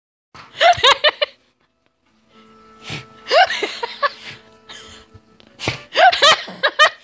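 High-pitched whooping laughter in three bursts, each a quick run of short rising-and-falling hoots, with a chugging rhythm that makes it sound like a train.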